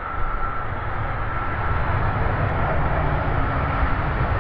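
Jet engine noise of an Air China Boeing 777-300ER on approach to land: a steady deep rumble that grows slightly louder, with a thin steady whine above it.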